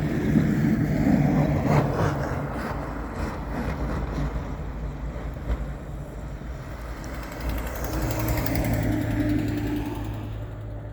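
Snowplow truck engine running as it drives by, a steady low drone that settles into a more even tone near the end.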